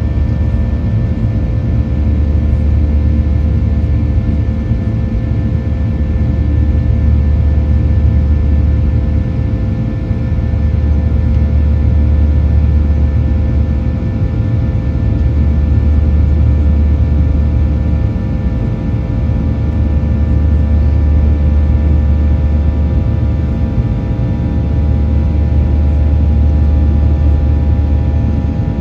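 Jet engine drone heard inside the cabin of a Boeing 737-800, its CFM56 turbofans running steadily in flight, with several steady whining tones over the rumble. The low throb swells and fades about every five seconds, the slow beat of two engines running at slightly different speeds.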